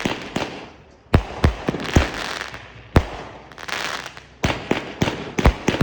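Red Apple Fireworks Tiki Assault 42-shot cake firing: a string of sharp bangs, often one or two a second and sometimes closer together, with two longer stretches of crackle between them.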